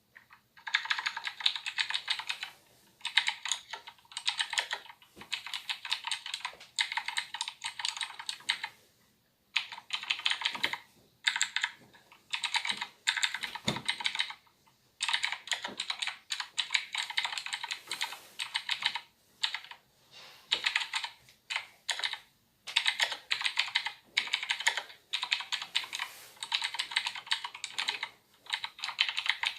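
Typing on a Razer BlackWidow Ultimate 2016 mechanical keyboard: fast runs of crisp key clicks, broken by brief pauses every few seconds.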